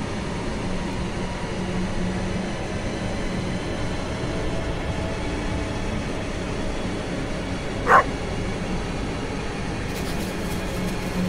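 A single dog bark about eight seconds in, over a steady low rumbling drone.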